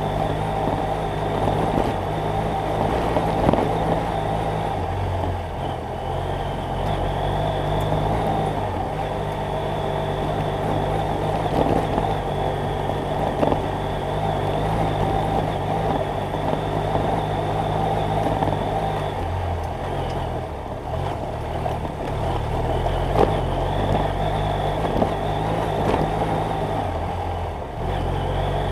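BMW F800GS Adventure's 798 cc parallel-twin engine running under way, its note shifting in steps several times with throttle and gear changes, over a steady rushing noise.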